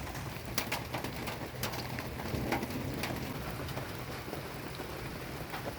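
Steady rain falling on and around a hut, with irregular sharp taps of a knife slicing chilies on a cutting board.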